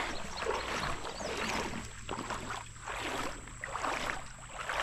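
Creek water sloshing and swishing around legs wading through shallow water, in an irregular run of swishes.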